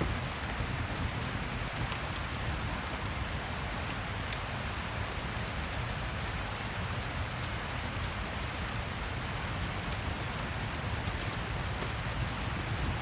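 Steady rain falling, an even hiss over a low rumble, with scattered faint ticks of drops.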